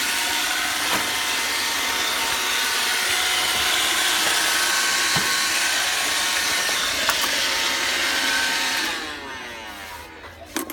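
iRobot Roomba robot vacuum running, a steady motor whir with several steady tones. About nine seconds in it shuts off and its motors wind down, the tones sliding down in pitch.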